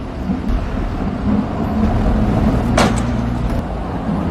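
Bugatti Chiron Pur Sport's W16 engine running with a low rumble, and a brief sharp hiss about three seconds in.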